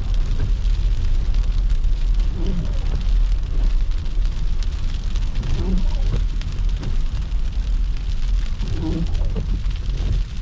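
Car driving on snowy roads: a steady low road rumble with a fine crackling patter over it. A faint short sound repeats about every three seconds.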